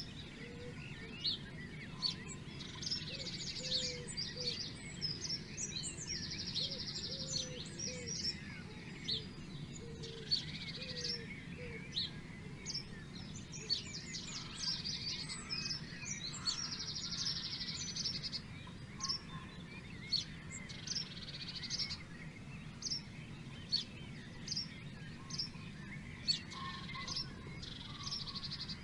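Several wild birds singing together. A rapid, buzzy high trill lasting about a second recurs every few seconds, amid many short sharp chirps and calls, over a steady low background noise.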